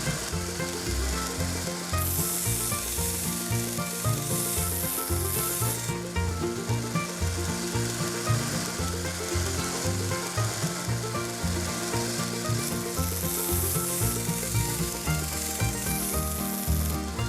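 1x30 belt grinder with a 120 grit belt grinding and smoothing the steel of an adjustable wrench: a steady abrasive hiss that swells for a few seconds at a time, over background music.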